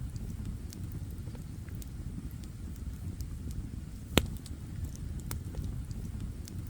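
Campfire burning with a steady low rumble and scattered small crackles, and one loud sharp pop about four seconds in.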